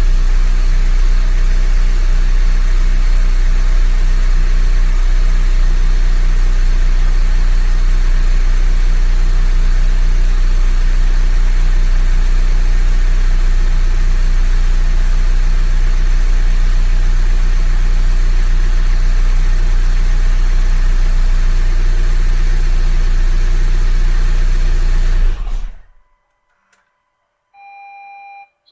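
Honda Grace GM9's petrol engine idling steadily, then switched off about 25 seconds in, its sound dying away within half a second. About two seconds later comes one short electronic beep.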